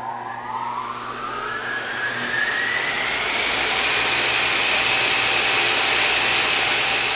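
A machine motor spinning up: a whine that rises over the first few seconds and then holds steady at a high pitch over a low hum and a rushing noise.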